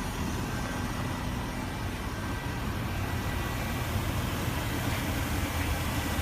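2015 Range Rover Supercharged's 5.0-litre supercharged V8 idling steadily.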